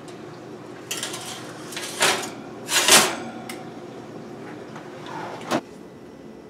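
A tray of treats being put into a kitchen oven: a few short scrapes and clunks of the tray and the oven door, the loudest about three seconds in.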